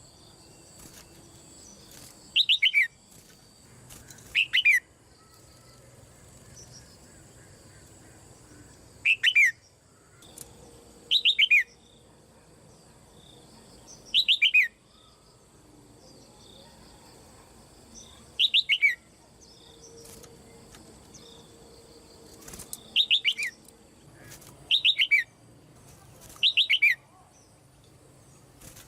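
Caged female red-whiskered bulbul calling again and again: short calls of a few quick notes, each falling in pitch, about every two to four seconds.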